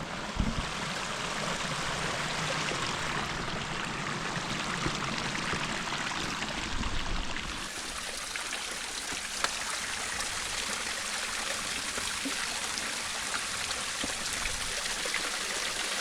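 Steady rush of water from a canyon stream and its small waterfalls, with a few low knocks in the first second.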